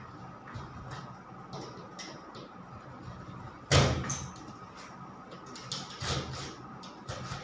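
Scattered knocks and scrapes of hand work on a ceiling board, with one loud thump nearly four seconds in and a few lighter knocks near the end.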